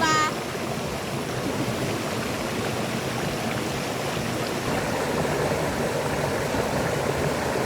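Stream water rushing steadily, a continuous even hiss of flowing water.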